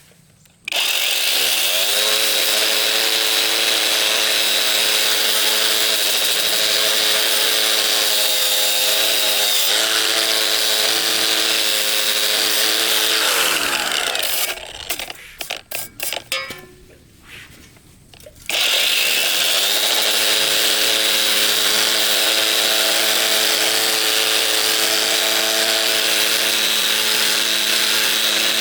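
An electric power tool runs at steady speed, winds down and stops about halfway through, and after a few seconds of clicks and knocks starts up again and runs on.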